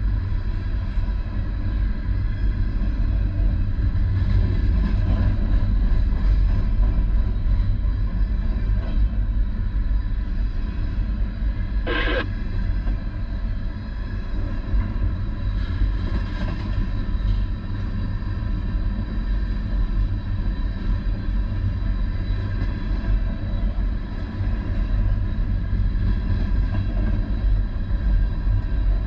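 Steady low vehicle rumble, with one sharp click about twelve seconds in.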